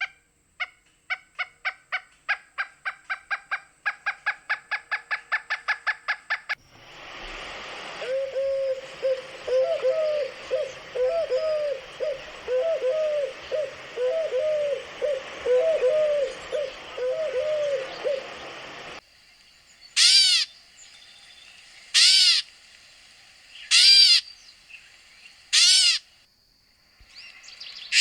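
Three different wild birds calling in turn. First comes a rapid run of short, clear notes, about five a second, for about six seconds. Next is a long series of low, repeated notes over a steady hiss. Last come four loud, separate calls, about two seconds apart.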